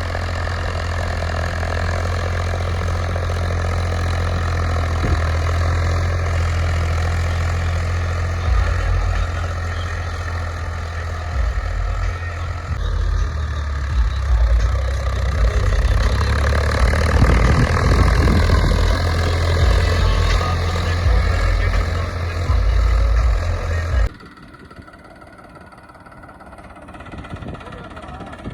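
Tractor diesel engine running steadily, loud and low. About 24 seconds in the sound drops abruptly to a much quieter engine.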